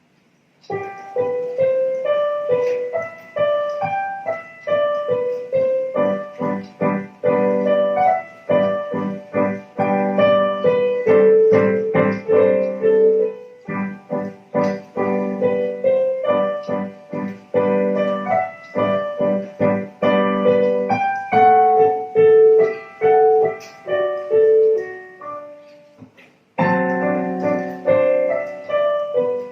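Solo piano piece being played. It starts about a second in, breaks off briefly near the end, then carries on.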